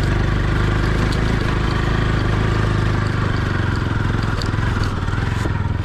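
Motorcycle engine running steadily at a low, even pitch while riding.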